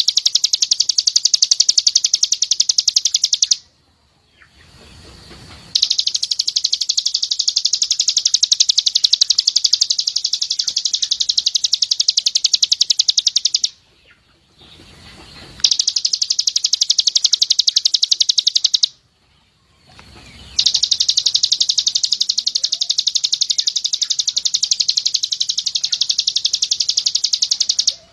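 Songbird giving rapid 'tembakan' trills, runs of very fast high notes, as in a bird-song training recording for white-eyes (pleci). The trills come in long bouts of several seconds, broken three times by pauses of about two seconds.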